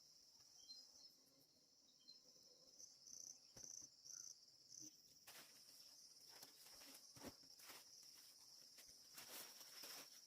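Faint steady high-pitched chirring of crickets, with a few short chirps a few seconds in. From about halfway there are soft, irregular rustles and crackles.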